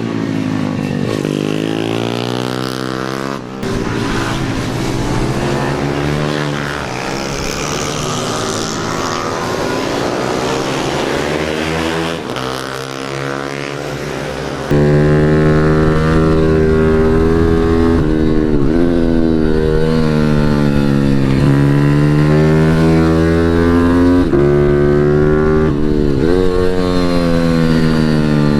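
Pit bike's single-cylinder engine revving hard on track laps, its pitch repeatedly falling and climbing again as the throttle is shut and opened. It gets noticeably louder about fifteen seconds in.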